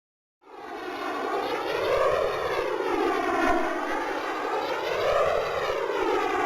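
Electronic whooshing sound effect, a dense rushing drone that swells in about half a second in and sweeps slowly up and down in pitch, rising and falling about twice.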